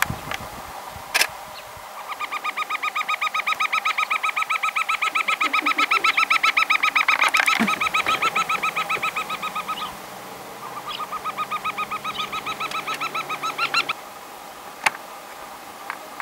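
A bird calling: a long, fast series of whistled notes that swells and then fades, followed after a short pause by a second, shorter series. A few sharp clicks are heard around the calls.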